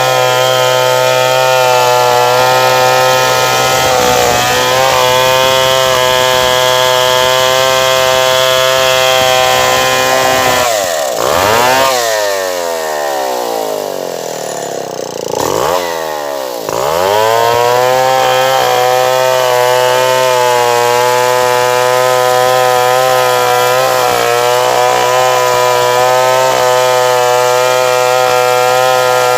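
Stihl 070 two-stroke chainsaw running at high revs while cutting wood. About eleven seconds in the revs fall away for a few seconds, then climb back up and hold steady again as the cutting continues.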